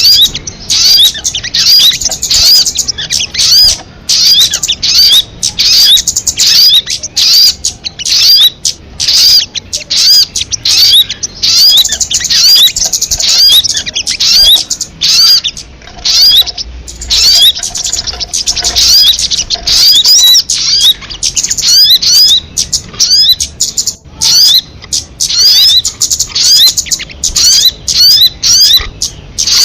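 Sogon bird singing: a rapid string of short, high-pitched chirps, several a second, in phrases broken by brief pauses.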